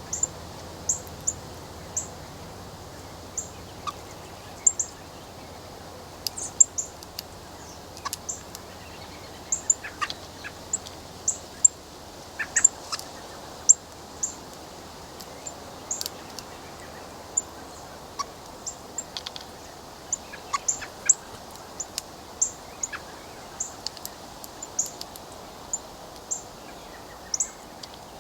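Birds at a window bird feeder: short, sharp, high chips and ticks that come irregularly, one to a few a second.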